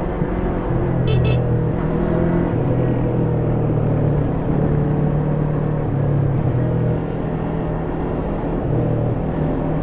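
Stock Yamaha YZF-R3's parallel-twin engine running at fairly steady, moderate revs while riding, its pitch shifting a little now and then. A brief high-pitched beeping about a second in.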